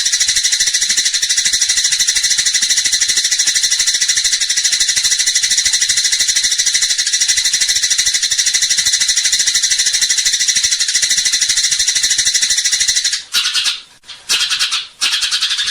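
Eurasian tree sparrow giving its rapid fighting chatter: a dense, unbroken stream of fast, high-pitched notes that breaks off briefly three times near the end.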